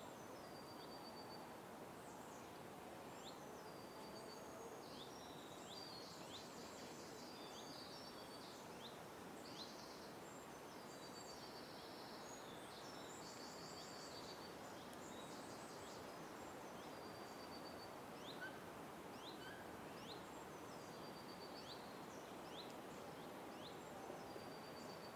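Several small birds chirping faintly, with many short high chirps and quick rattling trills, over a steady background noise.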